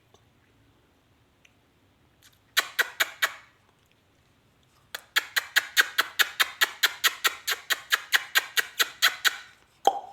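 Ringneck parrot giving short, sharp repeated calls: a quick burst of about five about two and a half seconds in, then, from about five seconds in until shortly before the end, a fast even run at about five calls a second.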